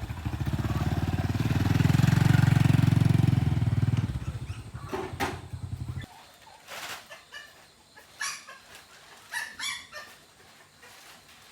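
A motorbike engine running loudly, then trailing away and stopping about six seconds in. A few short chicken clucks follow.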